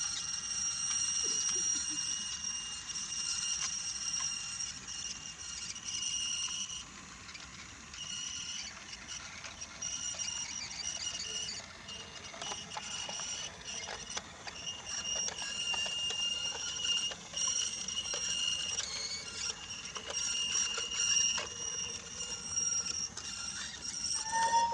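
Small electric motor of a battery-powered Brio toy locomotive, with a high-pitched whine that drops out and comes back several times. Light clicks come in the second half as the train runs over the wooden track.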